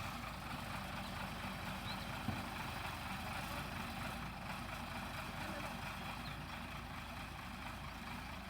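Tata Hitachi 200 excavator's diesel engine running steadily, with a single short knock about two seconds in.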